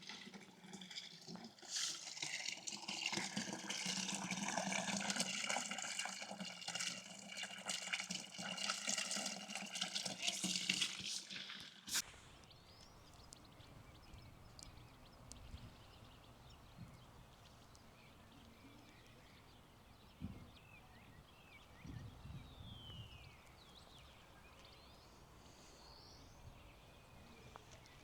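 Running water splashing and trickling steadily, which stops abruptly about twelve seconds in. It leaves quiet outdoor ambience with a few short bird chirps later on.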